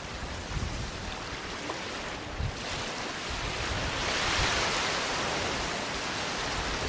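Gentle ocean waves on a sandy beach: a steady hiss of surf, with one wave washing up and swelling in the middle before easing off.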